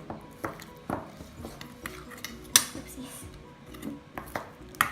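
A mixing utensil knocking and clinking against a bowl in irregular strokes while stirring bird seed into a sticky rice-flour mixture, the loudest knock about two and a half seconds in.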